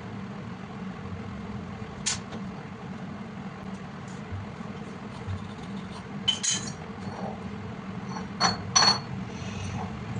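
A machine runs with a steady low hum, and sharp metallic clinks sound about two seconds in, twice around six and a half seconds, and twice near the end. The last two ring briefly, like metal parts or tools knocking together.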